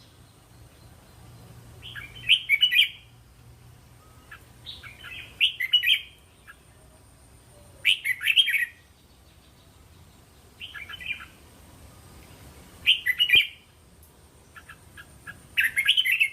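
Red-whiskered bulbul singing short, bright warbled phrases, one every two to three seconds.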